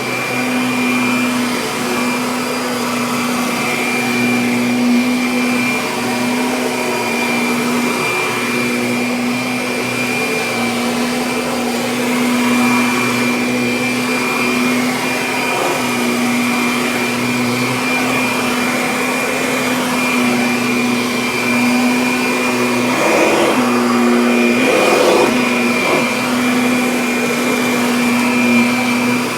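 Kirby Avalir upright vacuum cleaner running steadily, a motor hum with a high whine over it. The pitch dips briefly twice near the end.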